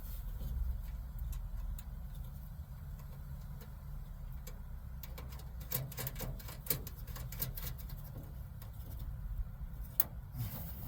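Scattered light clicks and taps of hand tools and metal parts being worked inside a car door, in a cluster midway and one sharp click near the end, over a steady low rumble.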